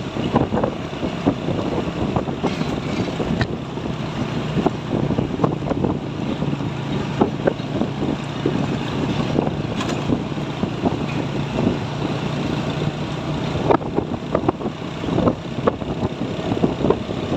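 Road traffic noise from trucks driving past, a steady rumble with frequent small crackles; a low engine hum stands out through the middle.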